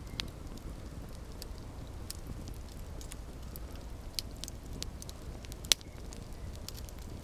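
Campfire burning with a low steady rumble and irregular crackles and pops, one sharp pop louder than the rest near the end.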